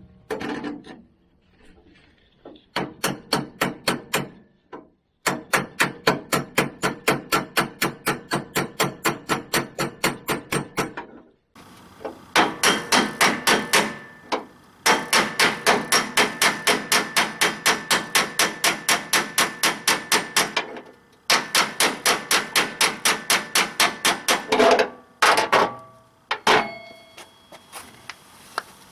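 Hammer strikes, rapid and evenly spaced at about four a second, in several runs of a few seconds each with short pauses between.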